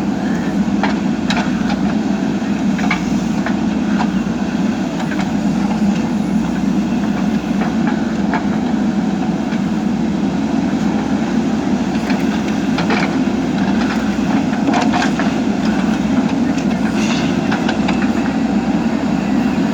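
JCB backhoe loader's diesel engine running steadily, with scattered sharp clicks and knocks throughout.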